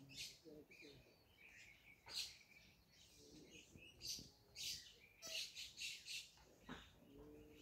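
Faint bird chirps, short high calls scattered through, loudest about two seconds in and in a cluster between five and six seconds.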